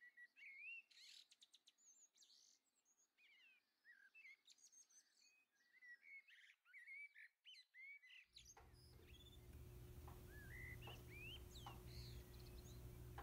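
Faint birdsong: many short, quick chirps and whistled notes from several birds. A little over halfway through, a steady low hum with a light hiss starts underneath the birds.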